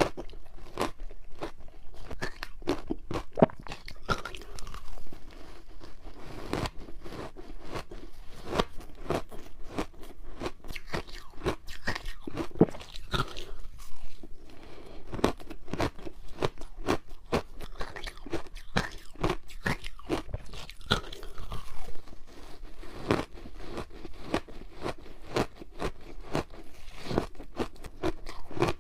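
Frozen matcha ice being bitten and chewed close to the microphone: a dense, irregular run of sharp ice crunches and cracks.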